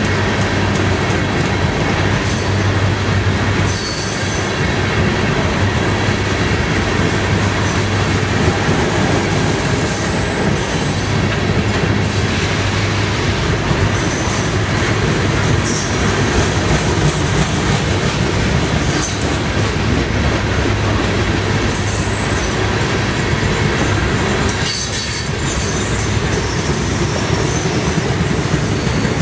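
Freight train of covered hopper cars rolling past close by: a steady rumble and clatter of steel wheels on rail, with short high-pitched wheel squeals now and then.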